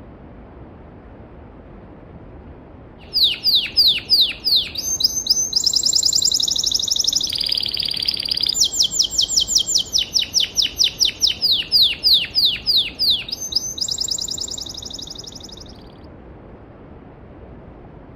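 A songbird sings one long, loud song of rapid trills and fast downward-sweeping notes. It starts about three seconds in and fades out a couple of seconds before the end. Underneath, a mountain stream rushes steadily.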